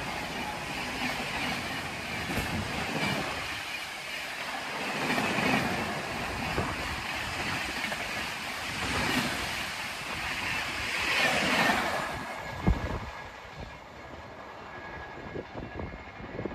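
Indian Railways express train passing close by: a steady rushing rumble of coaches and wheels on the track. About twelve seconds in it falls away sharply as the train goes by, leaving a thump and a few scattered clicks.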